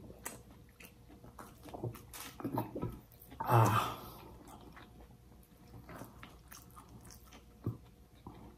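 Close-up mouth sounds of people eating baked fish with their fingers: soft chewing with many small lip smacks and clicks. About three and a half seconds in there is one louder short vocal noise from one of the eaters.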